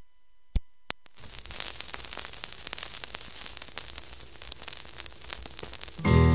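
Crackling static with many small clicks, after two sharp pops about half a second and a second in, like the surface noise of an old recording before it starts. Music comes in loudly just before the end.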